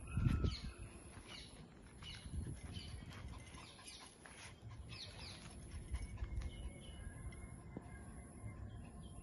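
Small birds chirping in a run of short falling calls over a steady high insect buzz, with a brief low thump near the start.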